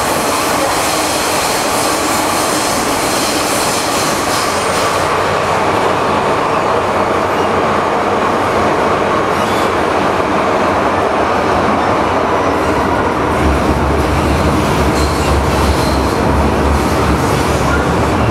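MTR M-Train electric multiple unit running, heard from inside the car: steady wheel and track noise, with a low hum that comes in about two-thirds of the way through.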